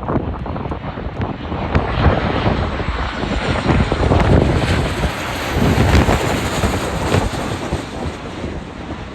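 Jet engines of a Boeing 737-800 (CFM56-7B turbofans) passing close on landing, with strong wind buffeting the microphone. The engine noise swells through the middle and fades near the end.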